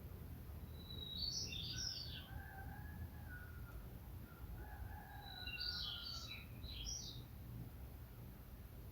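A songbird sings two short, bright, twittering phrases, one about a second in and one about six seconds in, with a longer, lower drawn-out call from another bird under them, over a steady low background rumble.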